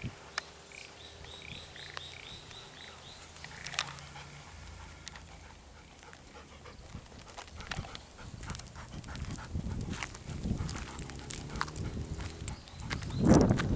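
Sounds of a golden retriever outdoors, with a louder burst of sound just before the end. A bird calls a quick run of short notes in the first few seconds.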